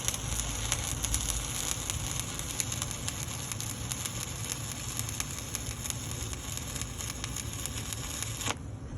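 Stick welding arc burning 1/8-inch 7018 rod at about 124 amps: a steady crackling sizzle that cuts off suddenly near the end as the arc is broken.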